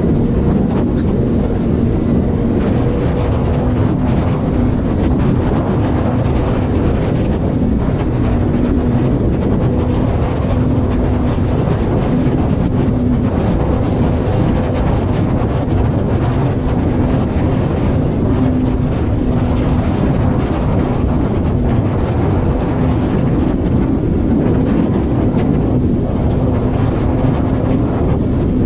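Car cruising at a steady speed on the highway. The engine drones at an even pitch under steady tyre and wind noise.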